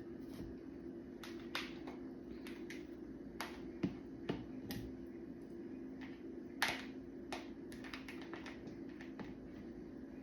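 Scattered light clicks and taps of kitchen handling, such as fruit pieces and utensils being put into a blender jar, over a steady low hum. Two sharper knocks stand out, about four seconds in and again near six and a half seconds.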